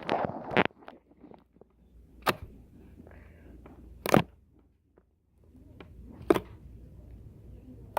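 Slime being worked by hand for ASMR, giving sharp pops about every two seconds as air bubbles pressed into it burst.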